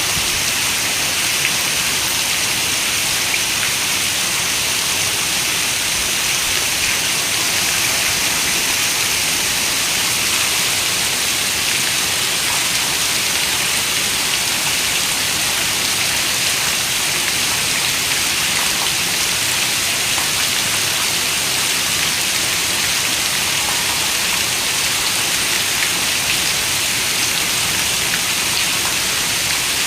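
Steady rain falling: an even, bright hiss with faint scattered drop ticks.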